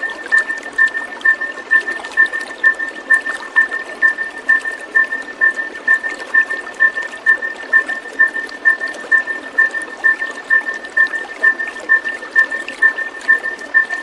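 Running water with a steady, even hiss, over which a high note pulses regularly about twice a second.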